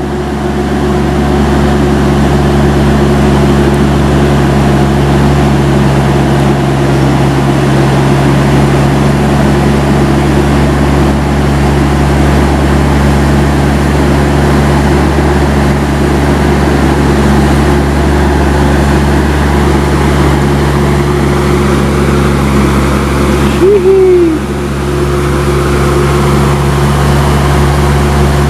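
Heavy truck's diesel engine running steadily at constant revs close by. About 24 seconds in, a brief loud sound with a short rising-then-falling pitch cuts across it.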